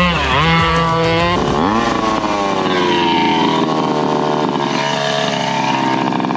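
A Rovan RF5 1/5-scale RC rally car's two-stroke petrol engine revving hard. The revs dip and recover right away, drop sharply and climb again about a second and a half in, then ease down slowly.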